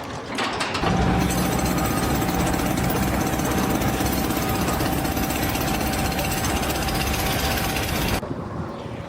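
Loud, steady machinery noise with a constant whine running through it, starting about a second in and cutting off suddenly near the end.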